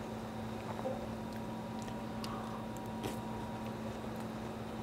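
Quiet eating sounds: a person chewing a mouthful of fried chicken and rice, with a few faint small clicks, over a steady low hum.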